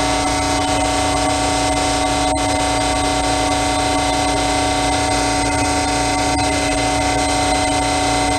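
A machine running with a steady drone, holding several fixed tones over a constant hiss with no change in speed or level.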